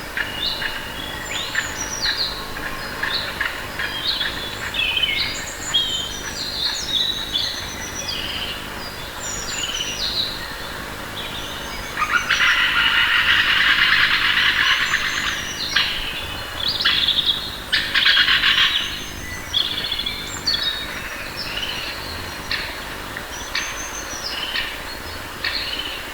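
Several songbirds chirping and calling over a faint background, with many short whistled notes. About halfway through, a loud, dense rapid trill runs for about three seconds, and a shorter one follows soon after.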